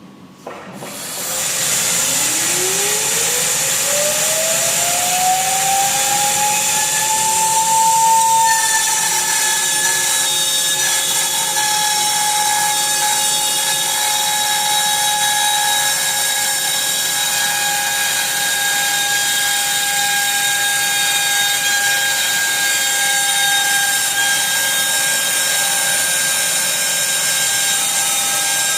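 CNC router's 800 W spindle starting up with dust extraction running. Its whine rises in pitch over about seven seconds, then holds steady over the constant rush of the extraction.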